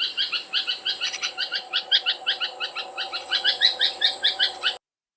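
Bird calls in quick repeated notes, about five a second, over a steady high whine, stopping abruptly near the end.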